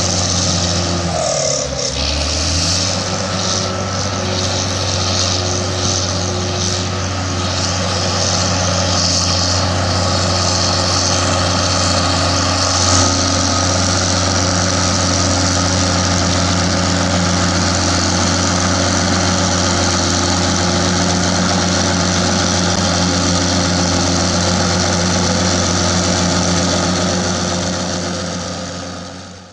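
Heavy diesel engine of a tracked earthmoving machine running steadily, with a brief dip in engine pitch about two seconds in. The sound fades out near the end.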